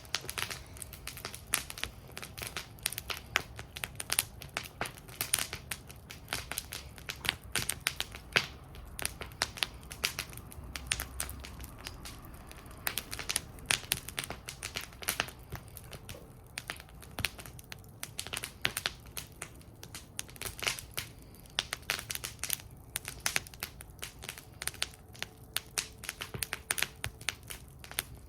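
Wood fire burning in a metal fire bowl, crackling steadily with many irregular sharp pops and snaps over a low, soft rumble of the flames.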